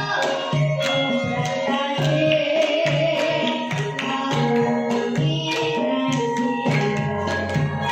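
Javanese traditional ensemble music, a hand drum beating steadily about two to three strokes a second under sustained melodic instruments.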